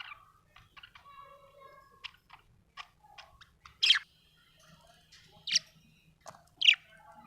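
Budgerigar chirping and chattering: a run of soft warbling notes and short chirps, broken by three loud, sharp chirps in the second half.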